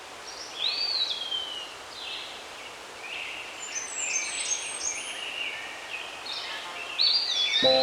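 Several wild birds calling over a steady hiss of forest background: short whistled notes, slurred rising and falling glides and a few high chirps, growing busier toward the end. Music with sustained low notes comes in just before the end.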